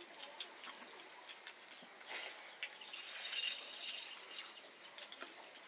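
Quiet clicks of chewing and eating, with a bird chirping in the background for a second or so about halfway through.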